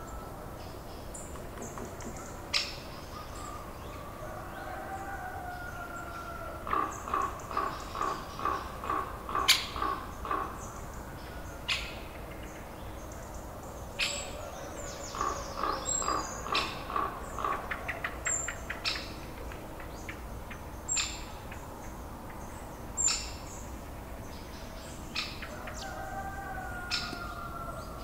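Birds calling: two runs of rapid repeated notes, about six a second, among gliding calls, with scattered sharp clicks.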